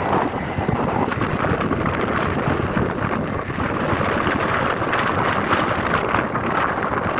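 Gale-force wind gusting, with heavy wind buffeting on the microphone giving a steady loud rumble.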